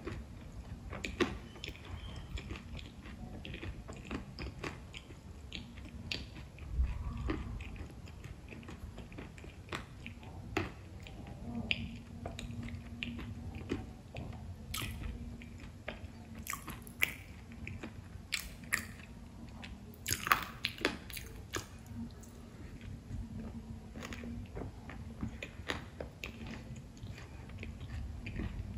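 A person chewing and biting into puris (crisp fried shells with filling), mouth noises close to the microphone, with many short crunches and clicks scattered irregularly throughout.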